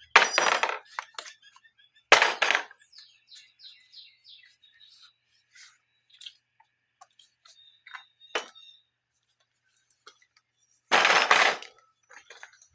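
Clinks and short scraping noises of objects being handled, with three louder bursts about a second in, about two seconds in, and near the end.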